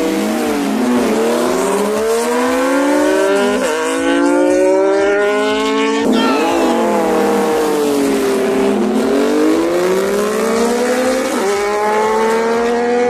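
Motorcycle engine revving hard through the gears with a loud exhaust. The pitch climbs, drops sharply at each shift about 3.5 and 11 seconds in, and makes one long dip and rise in the middle.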